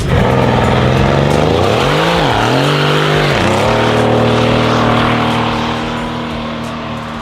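Modified Japanese sports car engine accelerating hard: the pitch climbs, drops sharply twice as it shifts up and climbs again, then holds a steady note that fades as the car pulls away.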